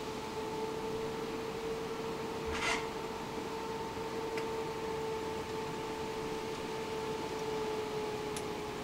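Steady electrical hum of two pitches over a background hiss, with one short rustle about a third of the way in and a couple of faint ticks.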